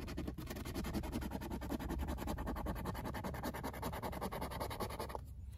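A coin scratching the coating off a scratch-off lottery ticket in rapid, even strokes. It stops about five seconds in.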